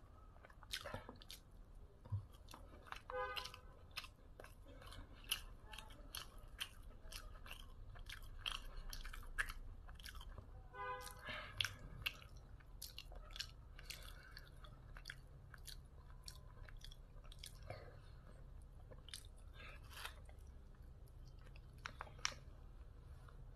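Close-up chewing of a mouthful of food: wet, open-mouthed smacks and clicks coming several times a second, irregular, with a few louder smacks standing out.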